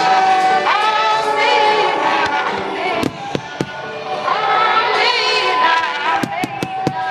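Music with singing, over which fireworks go off: a few sharp bangs about three seconds in and a quick run of four cracks near the end.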